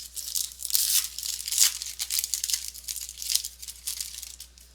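A baseball card pack's wrapper being torn open and crinkled by hand, in a run of quick, irregular rips and crackles.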